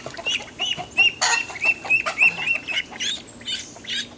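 Several ducklings peeping rapidly and shrilly, crying in distress at being put in water, with calls overlapping several times a second. A brief rush of noise comes about a second in.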